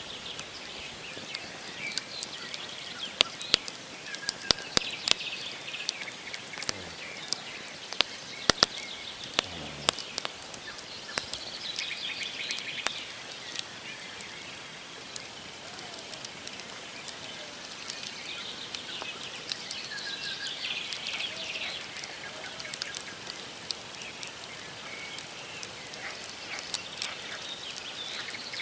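Wood campfire crackling, its burning logs giving off frequent sharp pops and snaps. Small birds chirp in the background, most busily about twelve and twenty seconds in.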